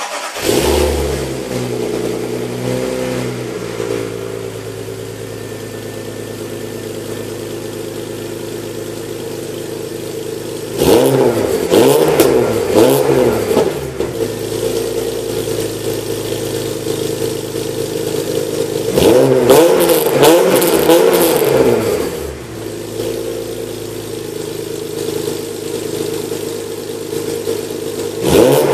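BMW E46 330Ci's 3.0-litre straight-six idling through a straight-piped exhaust with no catalytic converters and no middle silencer, only an Eisenmann Race rear silencer. Its throttle is blipped in quick rev bursts: a cluster about 11 seconds in, another about 19 seconds in, and a single blip near the end.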